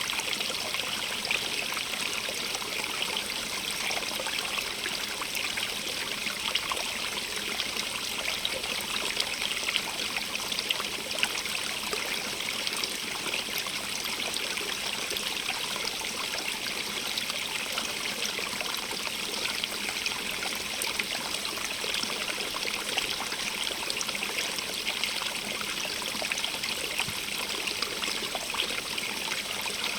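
Stream of running water babbling and trickling steadily, a dense even rush with fine splashing detail.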